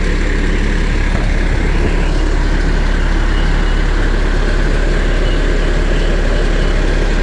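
A vehicle engine idling steadily: a constant low rumble with an even hiss above it.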